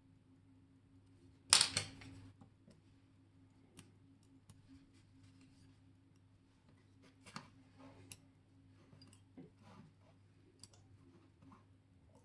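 Small metal clicks and taps of watchmaker's tools handling watch parts. One loud cluster of clicks comes about a second and a half in, followed by scattered light clicks.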